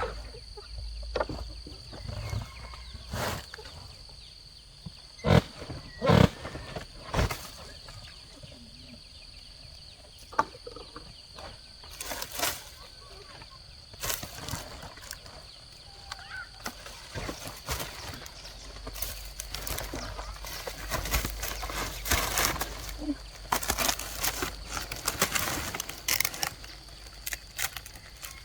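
Irregular knocks and thuds, several loud single strikes, then denser clattering with a low rumble in the second half, over a steady high-pitched whine.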